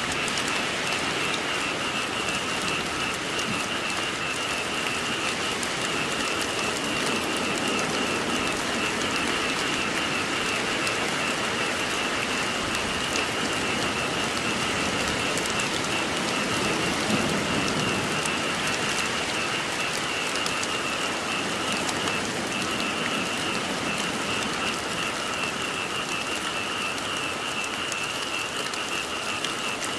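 Steady rain falling, with a chorus of frogs calling underneath as a continuous high trill.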